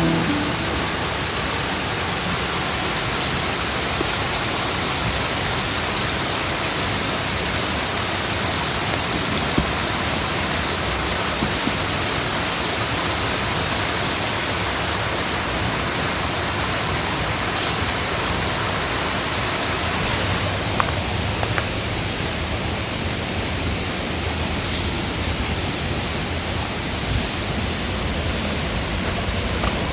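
Mountain stream rushing steadily over rocks, a continuous even wash of water noise.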